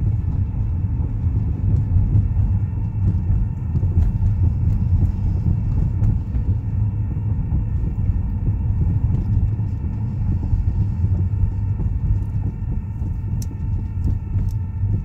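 2013 Buick Verano running, with a loud low rumble and a steady whine of unchanging pitch above it.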